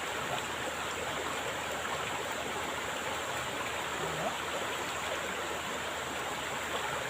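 Flowing stream water, a steady rushing sound.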